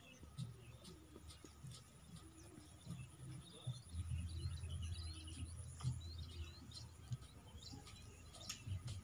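Small birds chirping and twittering in many short, quick calls, with a low rumble from about four to six seconds in.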